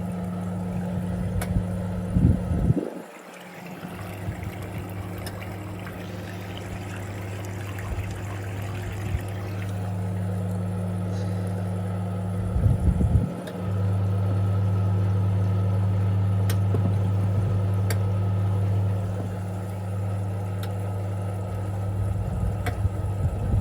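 Pulsator washing machine draining: water running out of the tub over a steady low electrical hum, with two short louder, busier spells, one about two seconds in and one about halfway through.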